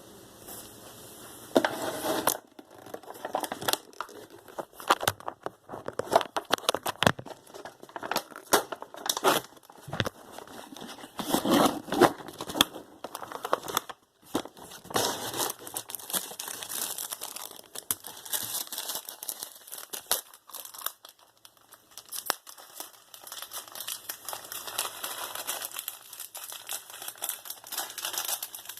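Crinkly plastic instant-ramen packaging being handled and torn open, in irregular crackling bursts with louder clusters now and then.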